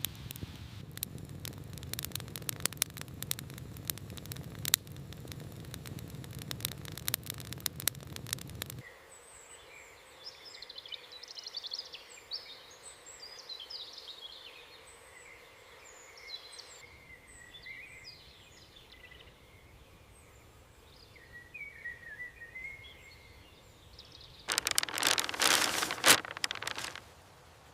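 Dense crackling and popping over a low rumble for about the first nine seconds. Then songbirds chirping and twittering in quieter outdoor ambience. A short, loud rushing burst comes near the end.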